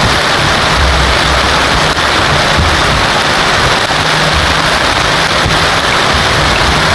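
Heavy rain pouring steadily, loud and even, with a low rumble coming and going underneath.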